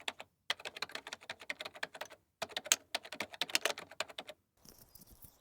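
Rapid keyboard typing, many keystrokes a second, in three quick runs separated by two short silent breaks. The typing stops about four and a half seconds in, leaving a faint outdoor background.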